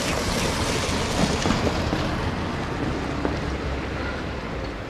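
Steady outdoor street noise of road traffic, with a low rumble and wind on the microphone, easing slightly toward the end.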